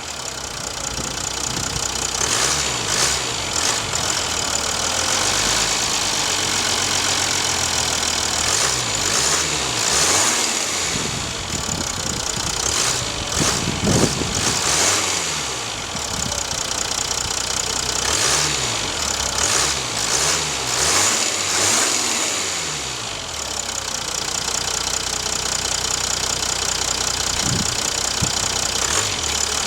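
Mercedes-Benz E350's turbocharged V6 diesel running with the bonnet open, idling and revved up and down in several groups of short throttle blips. It settles back to a steady idle over the last several seconds.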